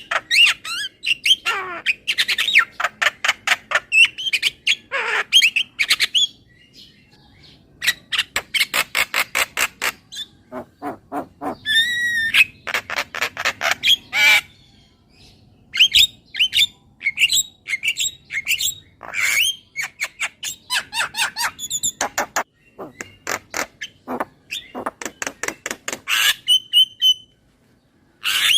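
Javan myna (jalak kebo) calling: runs of rapid, harsh chattering notes and squawks mixed with a few whistled gliding notes, broken by a few short pauses.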